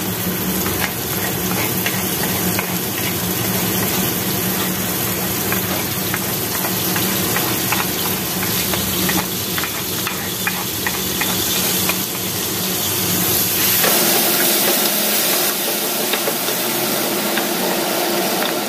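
Chopped red chili and shallots sizzling in hot oil in a frying pan, with a wooden spatula scraping the bits off a plate, tapping and stirring in the pan. About three-quarters of the way through the sizzle turns brighter and louder.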